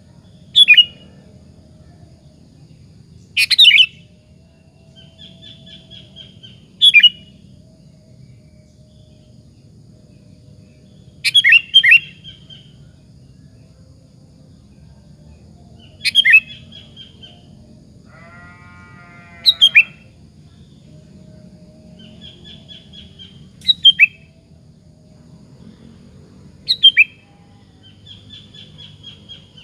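Sooty-headed bulbul (kutilang) singing: short, loud, down-slurred phrases every three to four seconds, with softer twittering between them. A brief lower, buzzy call comes in about two-thirds of the way through.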